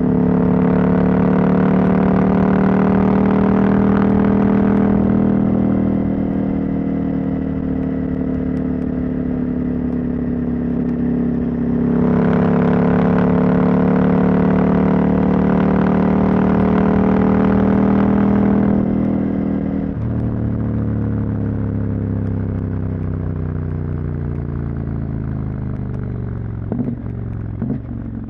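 Husqvarna Norden 901's parallel-twin engine, catalytic converter removed, running steadily under throttle at cruising speed. It quietens about six seconds in, pulls harder again about twelve seconds in, then eases off about twenty seconds in, the engine note falling steadily as the bike slows. There are a few sharp knocks near the end.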